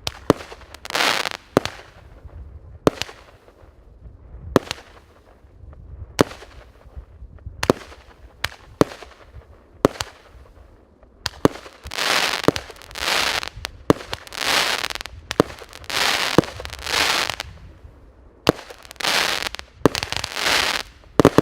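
A 49-shot, 1-inch consumer firework cake firing shot after shot. Each shot is a sharp bang, and many are followed by a half-second rushing burst. The shots come about every one to two seconds, closer together in the second half.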